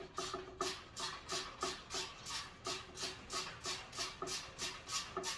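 Hand ratcheting screwdriver clicking in a steady rhythm, about three clicks a second, as bolts are driven down snug.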